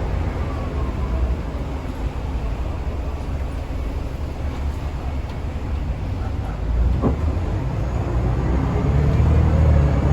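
Scania L94UA city bus engine running with a steady low rumble, then pulling away near the end: the low end grows louder and a whine rises in pitch as the bus accelerates.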